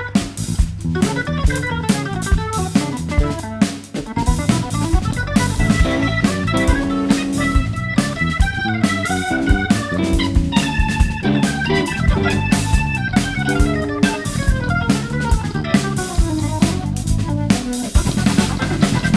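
Jazz-rock band playing an instrumental passage: drum kit, bass and electric guitar, with fast runs of notes climbing and falling over the beat.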